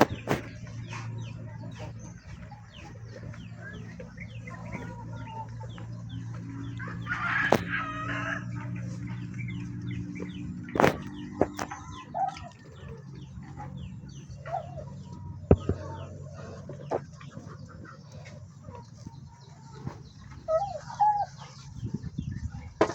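Farmyard poultry calling: many short clucks and peeps, with one louder, drawn-out call about seven and a half seconds in. A steady low hum runs under them until near the end, and a few sharp knocks sound.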